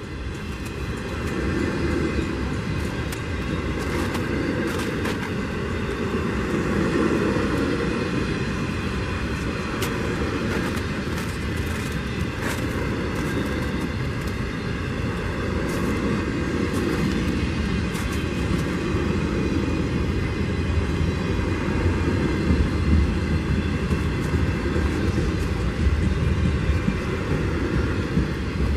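Freight cars of a Norfolk Southern intermodal train, trailers on flatcars, rolling past at speed: a steady rumble of wheels on rail with frequent sharp clicks and clanks.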